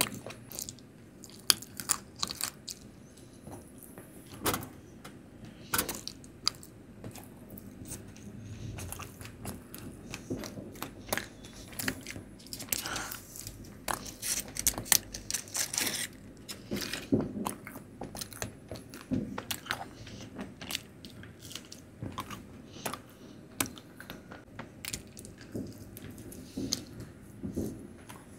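A person chewing and eating Indian sweets close to the microphone: wet mouth sounds with many short, irregular clicks and smacks.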